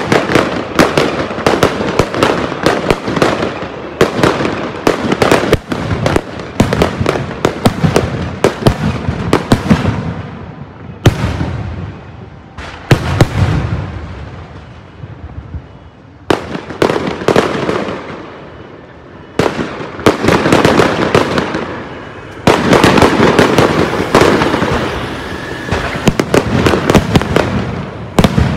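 Aerial fireworks going off in rapid volleys of sharp bangs and crackling. There are short lulls between the volleys, and a dense barrage comes near the end.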